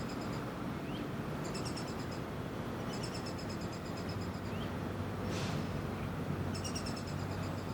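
Young downy woodpecker calling in several bouts of rapid, high chattering notes, each bout one to one and a half seconds long, over a steady low hum.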